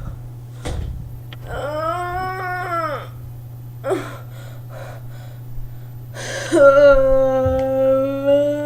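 A drawn-out wordless voice: one call that rises and falls in pitch, a few short breathy sounds, then a louder long held note near the end, over a steady low electrical hum.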